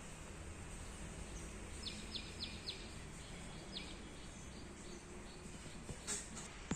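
A bird chirping faintly: a quick run of four short high notes about two seconds in, then a few fainter ones, over steady low outdoor background noise. Two sharp clicks near the end.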